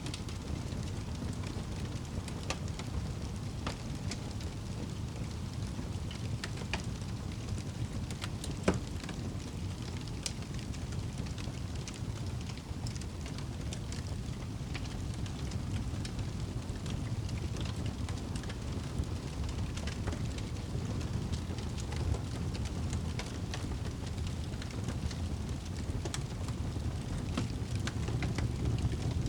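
Wood fire burning in a fireplace: a steady low rumble of the flames with scattered crackles and pops, one loud pop about nine seconds in.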